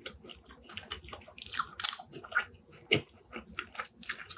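A person chewing a mouthful of Lazeez chicken-topped fries with sauce, close to the microphone: irregular wet mouth clicks and smacks.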